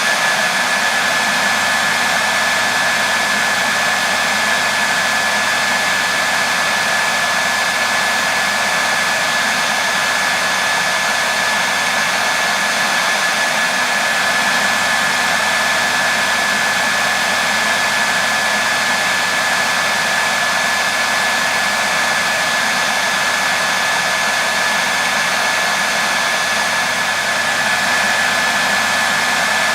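Hair dryer running continuously at a constant setting: a steady rushing blow of air with a thin, steady whine from the motor and fan.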